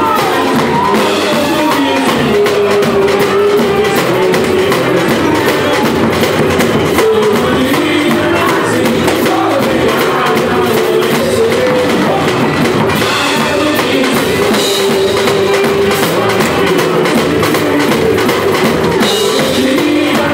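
Live samba music: a band playing with dense, steady percussion and a voice singing the melody.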